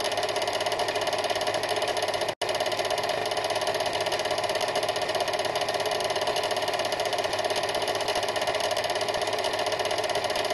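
Steady mechanical whirring rattle at an even level, with a brief dropout to silence about two and a half seconds in.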